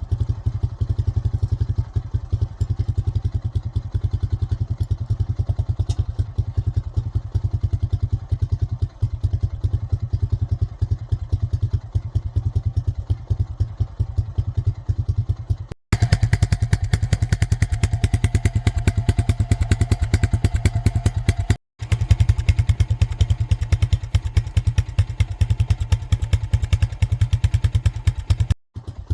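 ATV (quad) engine running steadily, with a dense, even firing beat. After a cut about 16 seconds in it runs louder and harder, under load as the quad pulls on a chain to drag down a hung-up tree.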